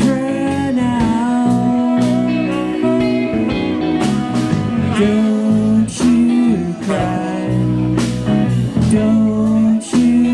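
Live rock band playing an instrumental passage: an electric guitar lead with bending, sustained notes over bass guitar and a drum kit.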